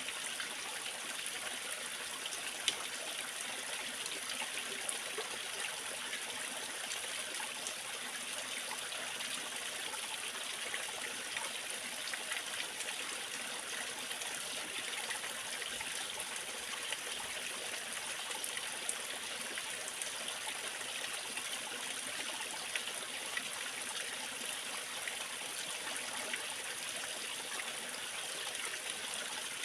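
Waterfall and stream water running steadily, a continuous even rush with small splashes and drips scattered through it.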